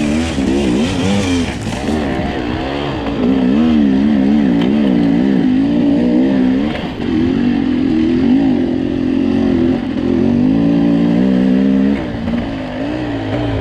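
Two-stroke enduro motorcycle engine being revved up and down in quick, uneven bursts of throttle. The pitch holds steadier for a few seconds past the middle, then drops back and the engine quietens a little near the end.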